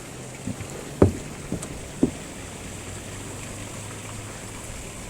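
Steady rush of the flood-swollen stream, with wind on the microphone. Four short knocks or thuds come in the first two seconds, the loudest about a second in.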